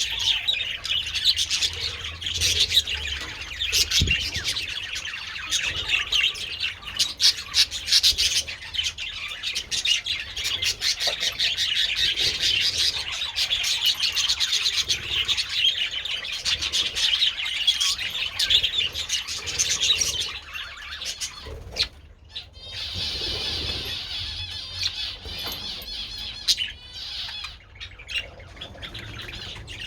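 A colony of budgerigars chattering and chirping together, a dense, busy twittering that thins out and gets quieter about two-thirds of the way through.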